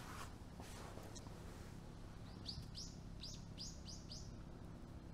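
A bird calling: a quick run of about six short, high chirps, each sliding down in pitch, about halfway through. A few soft rustles near the start.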